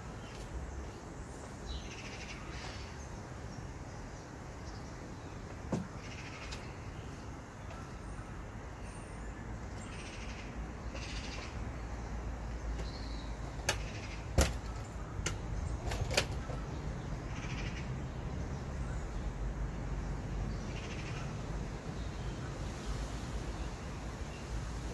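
Short bird calls repeated every second or few seconds over a low rumble, with a few sharp clicks or knocks around the middle.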